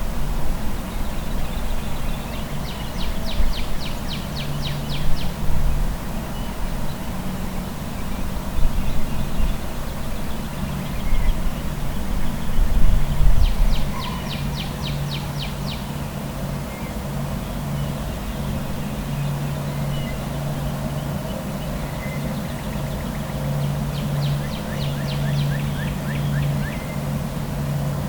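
A small songbird sings a fast, high trill three times, about ten seconds apart, over a steady low rumble of traffic.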